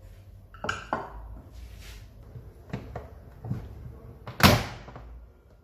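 Kitchen utensils and bowls being handled: a few light knocks and clinks, then one loud sharp clack about four and a half seconds in.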